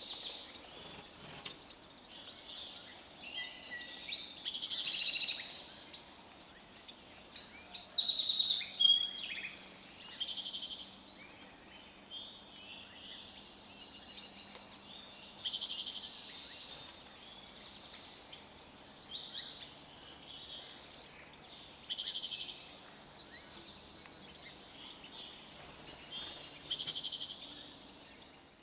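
Forest songbirds singing: a high, rapid trill of about a second repeats every few seconds, with shorter whistled notes and chips from other birds in between, busiest and loudest about eight seconds in.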